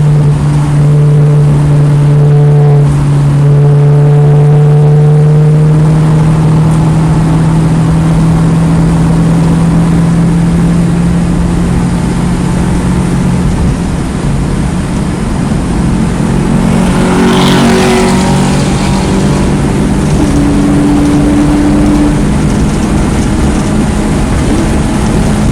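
2009 Mini Cooper S's turbocharged 1.6-litre four-cylinder engine running hard on track with loud road noise, its note holding nearly steady for about the first half. About two-thirds through the note changes and a brief hiss rises over it, then the engine settles into a steady note again.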